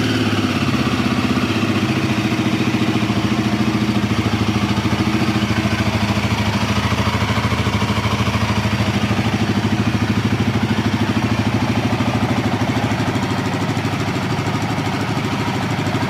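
Royal Enfield Himalayan 450's single-cylinder engine idling steadily just after a cold start. The idle drops slightly about two seconds in.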